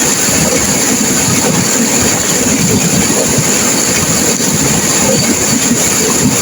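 Turbulent river water rushing and crashing, a loud, steady, unbroken rush.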